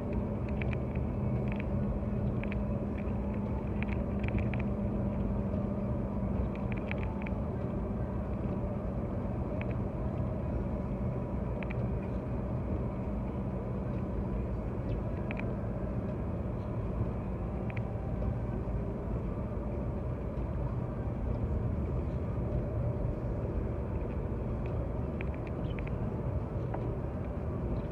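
Steady engine and road rumble inside a car driving on an icy, snow-covered highway, with a low hum and scattered faint ticks.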